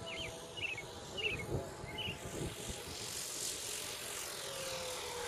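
Electric motor and propeller of an R/C airplane in flight, a faint drone whose pitch slides slowly down near the end, with a few short high chirps in the first two seconds.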